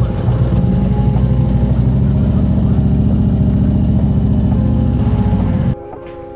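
Harley-Davidson Road King Special's V-twin engine running with a loud, deep, pulsing rumble that cuts off suddenly near the end, with steady background music under it.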